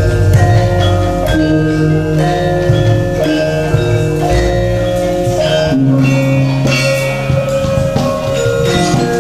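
Javanese gamelan playing: layered, ringing notes from bronze metallophones over deep, long-held low notes.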